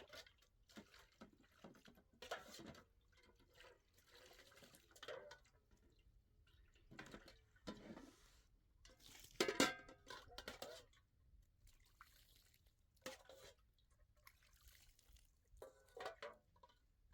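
Quiet kitchen handling sounds: scattered light knocks and clinks with some liquid dripping and splashing, the loudest a brief ringing clatter about halfway through.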